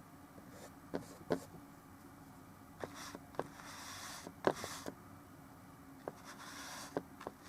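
Oil paint brush strokes scrubbing across a canvas in short passes of about a second, with light taps and clicks of the brush in between.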